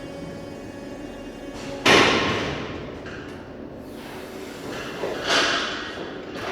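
Reach truck at work in a warehouse: a steady machine hum broken by two sudden loud clattering knocks about three and a half seconds apart, the first the louder, each fading over about a second.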